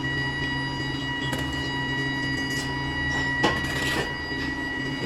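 Foundry machinery running steadily, a constant drone with a high whine, with a brief metallic clatter about three and a half seconds in.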